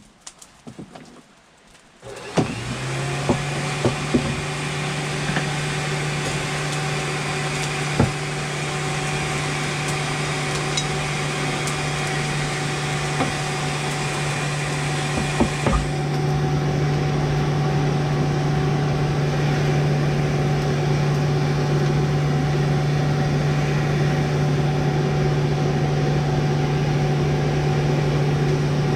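An electric motor switched on about two seconds in and running steadily with a low hum and a hiss, with a few light knocks early on; about halfway through, the hiss above the hum drops away.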